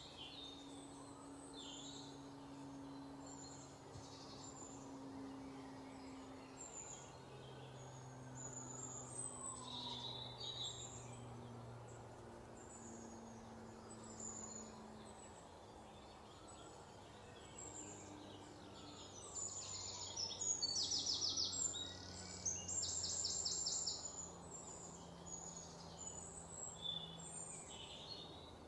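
Small birds chirping in short high calls, with two louder rapid trills about twenty seconds in, over a faint low background hum.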